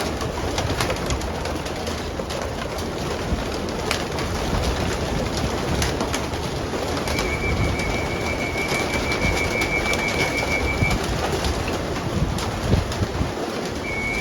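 Racing pigeons cooing around the loft, with scattered clicks and wing noise. A steady high-pitched tone sounds for about four seconds in the middle and starts again near the end.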